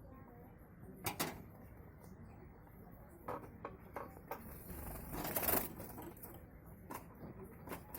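Java sparrows moving about in their aviary: irregular small taps and clicks, with a brief louder rustle about five seconds in.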